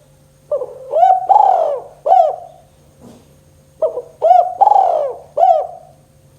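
Spotted dove (tekukur) singing its 'kuk 2' call: two phrases about three seconds apart, each a short opening note followed by a few rounded, arching coos. A faint steady hum lies underneath.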